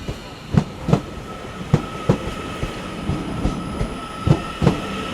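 Train rolling slowly through the station throat: irregular clicks of the wheels over rail joints and points, with a steady high-pitched wheel squeal coming in about two seconds in.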